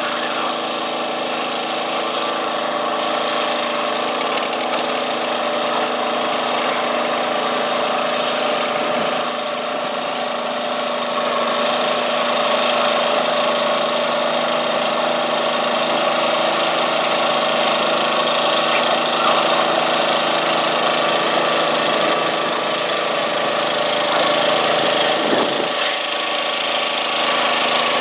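Garden tractor engine running steadily, getting somewhat louder about twelve seconds in.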